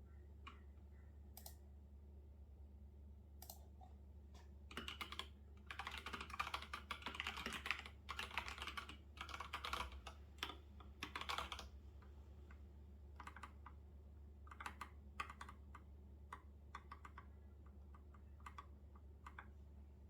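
Soft typing on a computer keyboard: a few scattered key presses, then a fast continuous run of keystrokes from about five to twelve seconds in, then single taps again. A faint low steady hum sits underneath.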